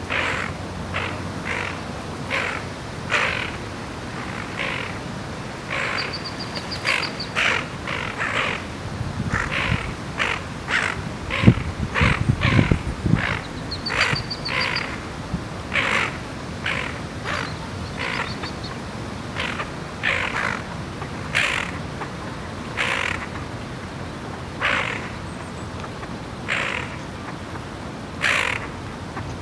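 Harsh, croaking bird calls repeated about once a second, with a couple of brief high trilling notes in between. A low thump and rumble come about twelve seconds in.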